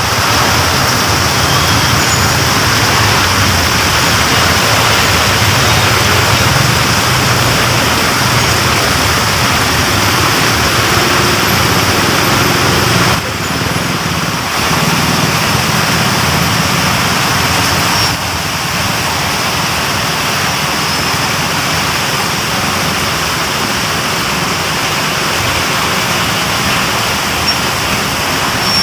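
Heavy rain pouring down in a steady hiss, slightly quieter after about thirteen seconds.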